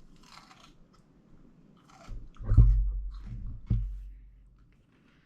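Bite into a crisp homemade refrigerator dill pickle, then chewing. There is a loud crunch about two and a half seconds in and a second sharp crunch about a second later.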